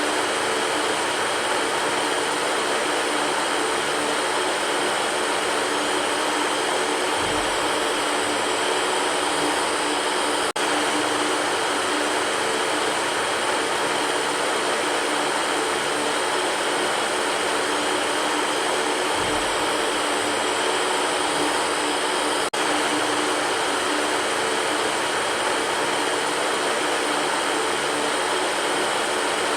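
Electric fan running steadily: an even whoosh of moving air with a faint hum under it, broken by two very brief dips, about 10 and 22 seconds in.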